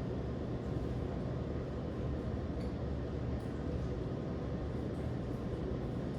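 Thunderstorm sound: a steady low rumbling noise with no distinct thunderclaps.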